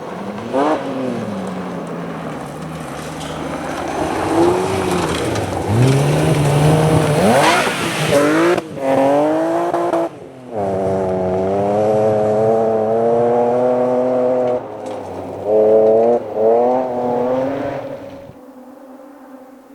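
Rally car engine revving hard and rising in pitch, with several sudden brief cuts in the note as the driver shifts or lifts off. The engine note fades away near the end.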